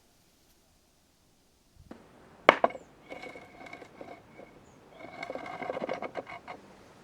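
Hand work on a rusty iron pick-hoe head: after a quiet start comes one sharp knock, then two spells of scraping with a faint ring.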